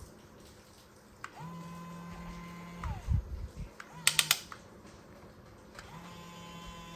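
Small electric gear motor of a remote-control toy construction vehicle whirring in short runs, the first about a second and a half long, each dropping in pitch as it stops. A brief burst with a few sharp clicks comes in between.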